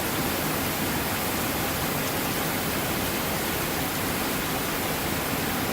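Heavy thunderstorm rain pouring down as an even, unbroken hiss.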